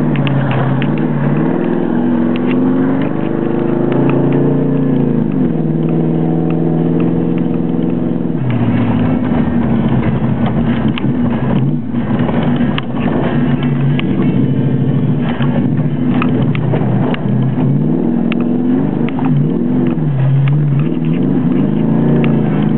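1973 Plymouth Satellite's engine driven hard, heard from inside the cabin: the revs climb and drop several times, with a sudden drop about eight seconds in and further rises near the end. Frequent short knocks run through it.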